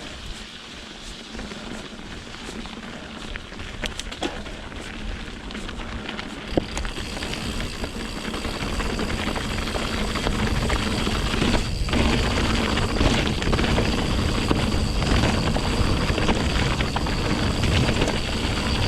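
Mountain bike on Pirelli Scorpion tyres riding wet, rocky singletrack: wind rushing over the microphone and the tyres and bike rattling over the ground, with a few sharp knocks. The noise grows louder from about a third of the way in as speed builds.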